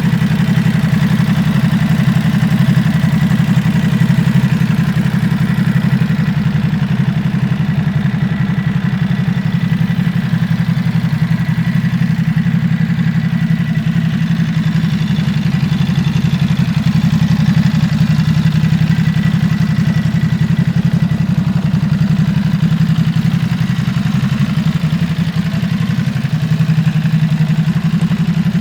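Ducati Supersport S 950's 937 cc Testastretta L-twin engine idling steadily.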